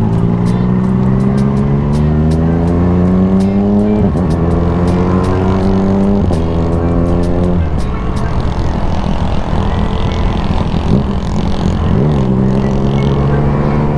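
A vehicle engine pulling up in long, slowly rising sweeps of revs, which drop back sharply about four, six, eight and twelve seconds in.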